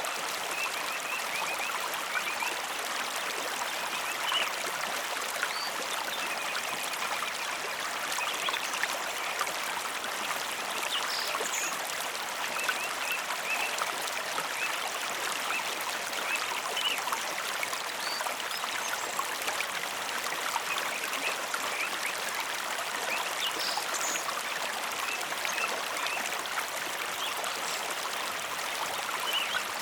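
Mountain river flowing steadily over rocks: a continuous, even rushing of water with faint short high blips scattered through it.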